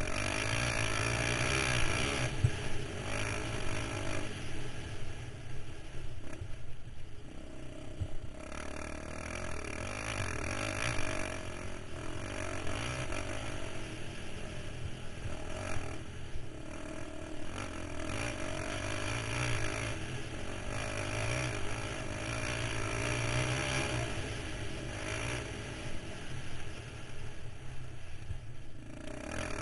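KTM 525 XC quad's single-cylinder four-stroke engine running under way, revving up and easing off again and again as the throttle opens and closes, with brief drops in revs about a quarter, half and nearly all the way through.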